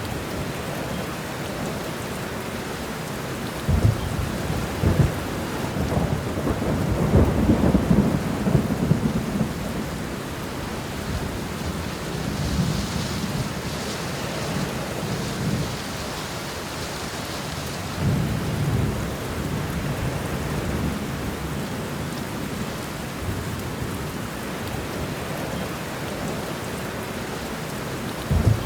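Steady rain with rolling thunder. A long low rumble builds about four seconds in and is loudest around six to nine seconds, then fainter rumbles follow through the rest of the stretch and one more comes near the end.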